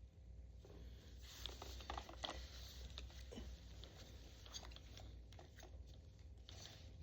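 Faint handling noise: scattered small clicks and rustles, busiest between one and three seconds in and again near the end.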